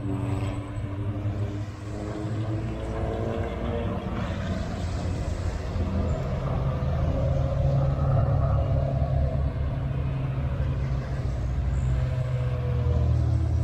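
Several race cars on a hillclimb course, one after another, their engines running and pulling through the bend with the pitch rising and falling. Underneath is a continuous low engine rumble that grows louder in the second half.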